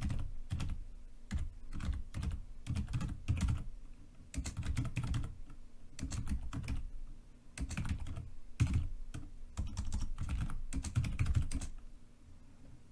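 Typing on a computer keyboard: quick runs of keystrokes broken by short pauses, each key a sharp click with a low thud beneath it.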